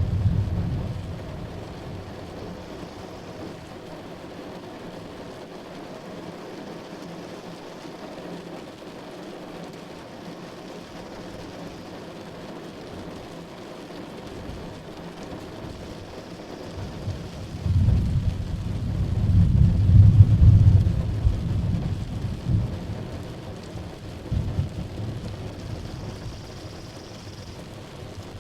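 Steady heavy rain with rolling thunder. A rumble of thunder dies away in the first couple of seconds, then a louder, deep peal rolls in about two-thirds of the way through, peaks, and rumbles off over several seconds.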